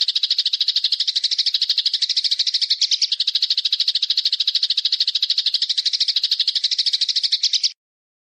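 A bird's fast, even rattling trill of about a dozen notes a second, high-pitched, held on without a break and then cut off abruptly near the end: a recorded training call played for cage birds to copy.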